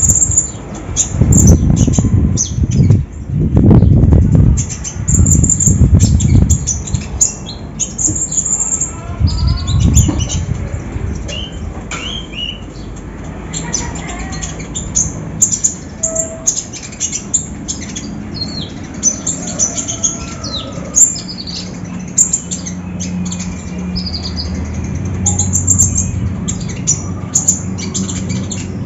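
Konin songbird calling with a rapid series of short, high chirps and squawks. Loud low fluttering flurries, like wings beating, come in the first several seconds.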